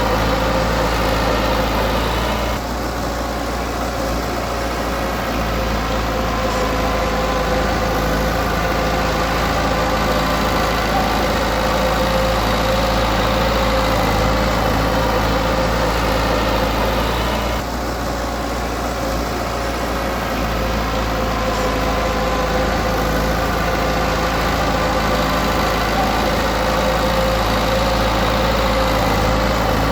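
Heavy-equipment diesel engine running steadily, its level dipping briefly about two and a half seconds in and again around eighteen seconds in.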